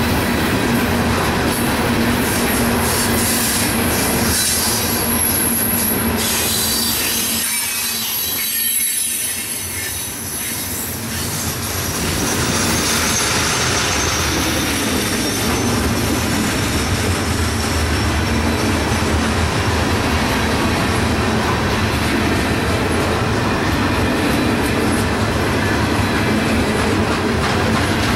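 Coal hopper cars of a freight train rolling past, a steady rumble and clatter of steel wheels on rail with high-pitched wheel squeals that come and go, strongest in the first several seconds.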